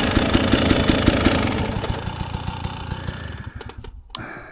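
Dirt bike engine idling with even firing pulses, fading gradually away over the second half.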